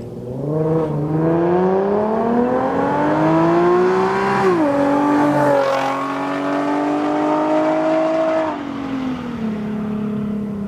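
Nissan 370Z's 3.7-litre V6 accelerating hard: the engine note climbs steadily for about four seconds, drops sharply at an upshift, pulls steadily in the next gear, then falls away near the end as the throttle eases.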